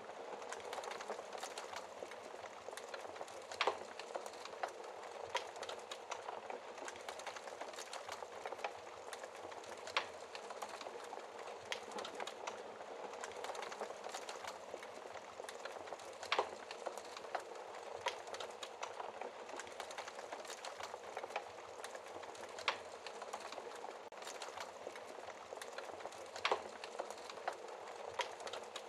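Wood fire burning in a fireplace: a steady soft hiss of flames with many small crackles and a louder sharp pop of burning wood about every six seconds.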